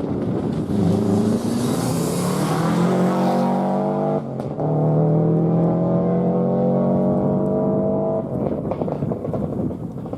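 Four-wheel-drive rally car engine accelerating hard, the note climbing; it breaks briefly for an upshift about four seconds in, pulls on strongly for another four seconds, then fades as the car moves away.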